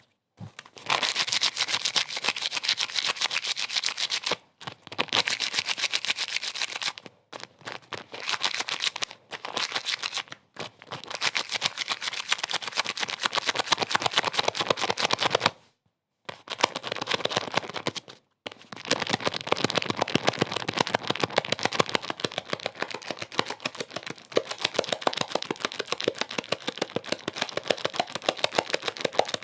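Fast, dense rattling clicks in stretches of a few seconds, broken by several short silences.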